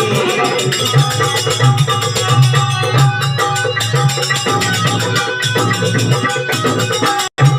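Instrumental interlude of a Rajasthani devotional folk song: drums and rattling hand percussion keep a fast, steady beat under held melody notes. The sound cuts out for an instant near the end.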